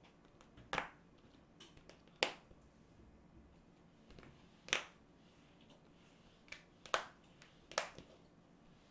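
A handful of short, sharp clicks or taps, about six spread irregularly over the stretch, the one a little before the middle the loudest, with quiet between them.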